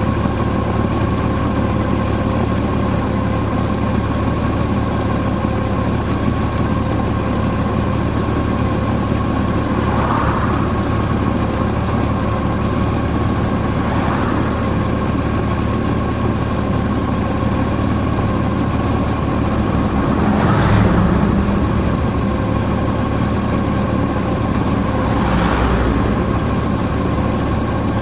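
A car's engine and road noise running steadily while driving, with a faint steady whine. A few short swishes come and go, the loudest about two-thirds of the way through.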